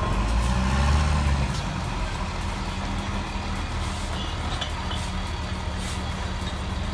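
Heavy diesel engine running, louder for about the first second and a half and then settling to a steady drone.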